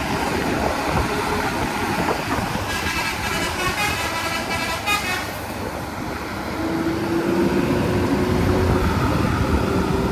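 A vehicle horn sounds once for about two and a half seconds near the middle, over the steady engine and road noise of a bus on the move.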